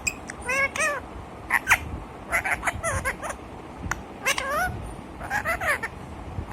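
Pet parrot making a string of short meow-like calls, each falling in pitch, mostly in pairs about once a second.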